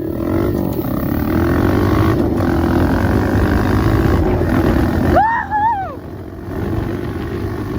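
Dirt bike engine running hard under throttle, its pitch wavering up and down. About five seconds in the engine note drops off and the rider whoops.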